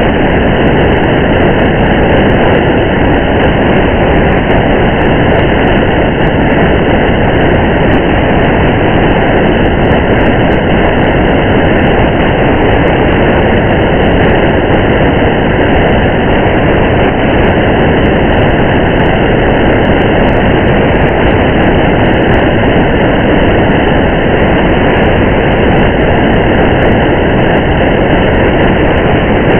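Steady rain and road noise heard from inside a moving car: a dense, muffled, unbroken hiss and rumble with faint scattered drop ticks.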